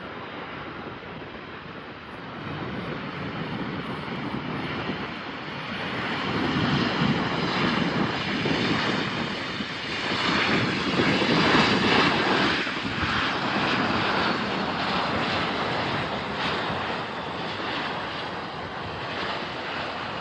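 An airliner's engines passing by, building up over several seconds to a peak a little past halfway, then slowly fading.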